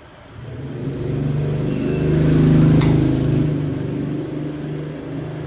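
An engine running, swelling louder over the first couple of seconds and then slowly fading.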